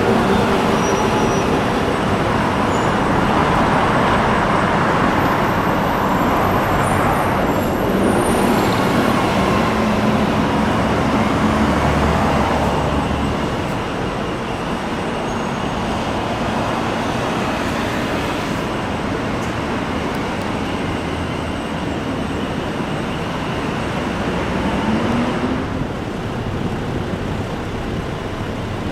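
Hiroden streetcar running along a street amid road traffic: a steady mix of running noise, with a low tone that rises briefly near the end.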